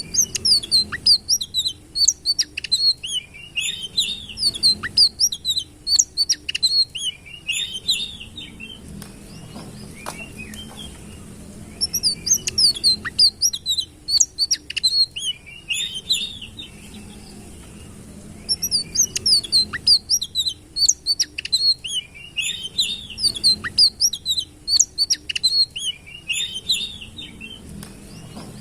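A sitrun songbird singing: rapid, high chirping and twittering notes in three long phrases, broken by short pauses.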